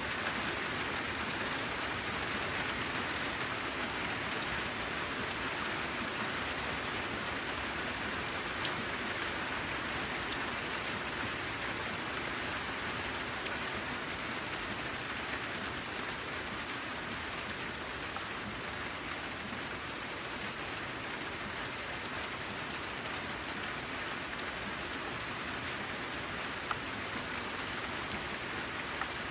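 Steady rain falling on a corrugated zinc (galvanized iron) roof, an even hiss with scattered sharper drop ticks.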